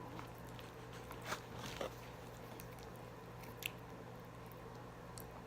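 Close-miked eating sounds: quiet chewing with three short sharp mouth clicks, the loudest just over a second in, over a steady low electrical hum.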